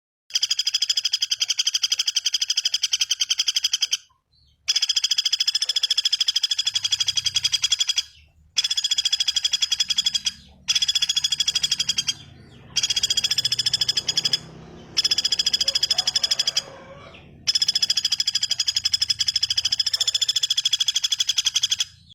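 A bird giving a very fast, steady, high-pitched trill, repeated in bouts of a few seconds each with short pauses between them.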